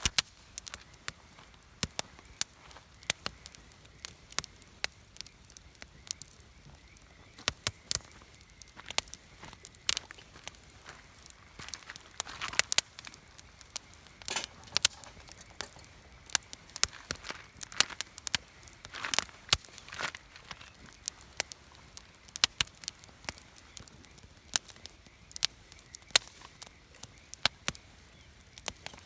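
Wood campfire burning, crackling with frequent irregular sharp pops and snaps, a few of them louder.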